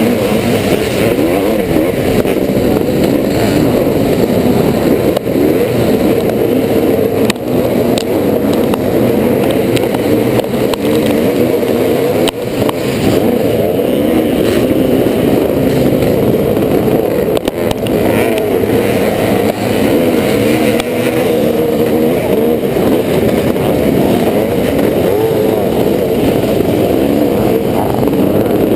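1986 Yamaha YZ490's two-stroke single-cylinder engine running hard under racing load, the revs rising and falling as the throttle is worked, with a few brief knocks.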